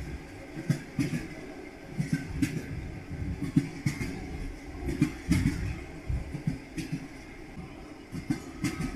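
Train wheels clacking over rail joints over a steady rolling rumble. The knocks come irregularly, often in close pairs.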